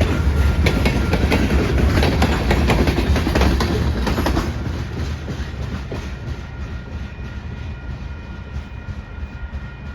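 CSX freight train cars rolling past, wheels clacking over rail joints, the sound fading from about halfway through as the train moves off. Faint steady high-pitched ringing shows as the rumble dies down.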